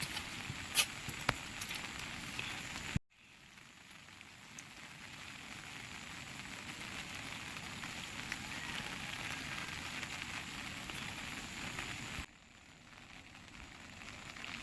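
Steady hissing noise with a few sharp clicks in the first two seconds. It cuts out abruptly about three seconds in and again near twelve seconds, rising back each time.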